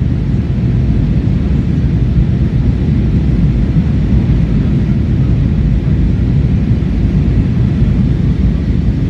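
Steady low rumble of jet engine and airflow noise heard inside an airliner's passenger cabin.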